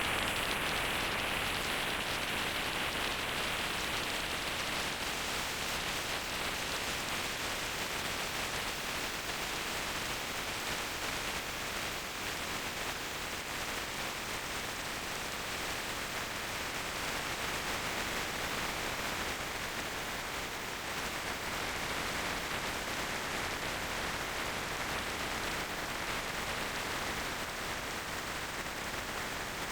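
Steady rushing wind and road noise from riding a motorcycle, with no engine note standing out; it eases slightly over the first few seconds.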